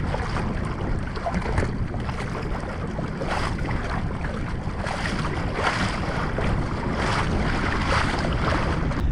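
Wind buffeting the microphone over water lapping around a kayak at sea, a steady rushing noise with a few brief swells.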